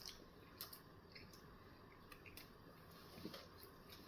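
Faint chewing of a bagel breakfast sandwich, with a few soft, scattered mouth clicks over near-silent room tone.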